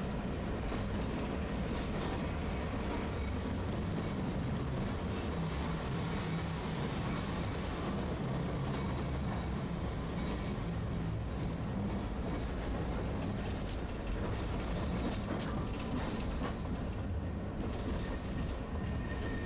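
Tosaden streetcar running along the line, heard from inside the car: a steady low rumble of the motors and steel wheels on rail, with scattered light clicks.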